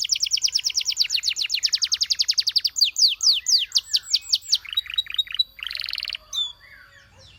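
Canary singing: a fast trill of rapidly repeated falling notes, then slower falling whistles about three seconds in, another quick trill and a short dense roll, after which the song drops to faint scattered chirps near the end.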